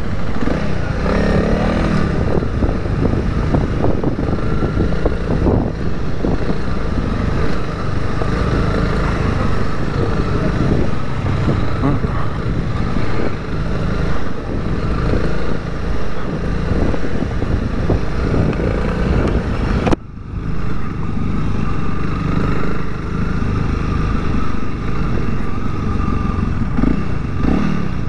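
Honda CRF300L's single-cylinder engine running steadily as the bike is ridden. The sound dips out for a moment about twenty seconds in, then carries on.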